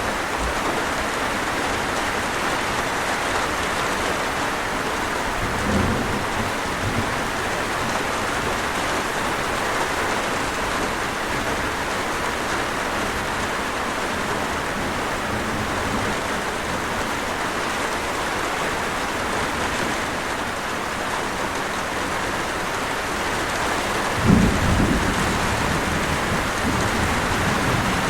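Steady heavy rain falling, with low thunder rumbles: a short one about six seconds in and a louder, sharper one near the end that dies away over a couple of seconds.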